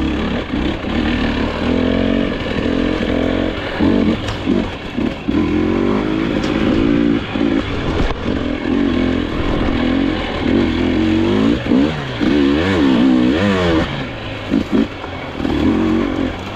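Dirt bike engine revving up and falling back again and again as it is ridden over rough trail, with a few sharp knocks.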